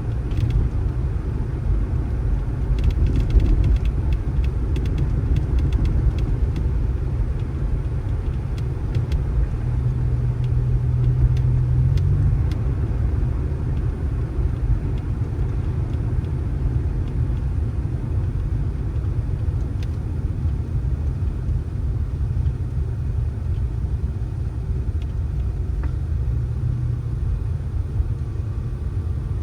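Car on the move, a steady low rumble of engine and road, with a brief steady hum joining in about ten seconds in.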